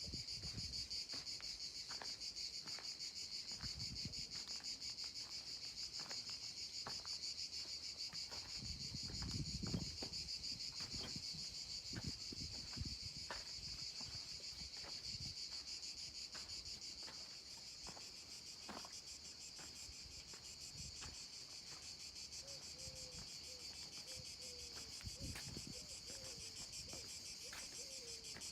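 A steady, shrill chorus of insects such as cicadas or crickets, with regular footsteps ticking along underneath.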